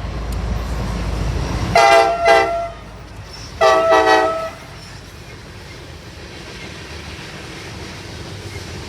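Diesel freight locomotive passing with a low engine rumble, sounding its multi-note air horn: two short blasts about two seconds in, then a longer blast a second later, before the train rumbles on more quietly.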